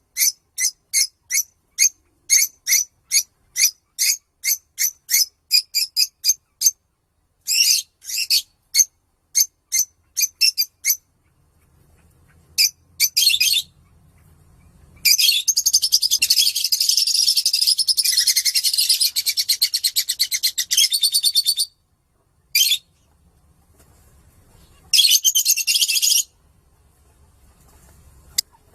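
Lovebirds chirping in short, high calls about twice a second, speeding up, then breaking into one long, rapid chattering trill of about six seconds, the drawn-out song lovebird keepers call "ngekek"; a shorter trilled burst follows near the end.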